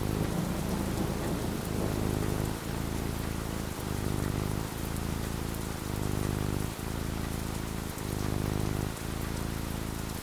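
Steady rain falling, with a low rumble underneath that dips briefly about once a second.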